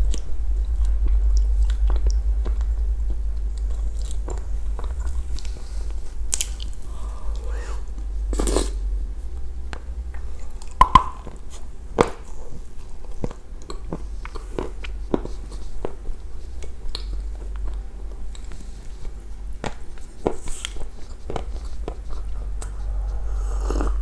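Close-up chewing and crunching of soaked clay eaten by the spoonful, with scattered clicks of a spoon against a glass bowl. A steady low hum runs underneath.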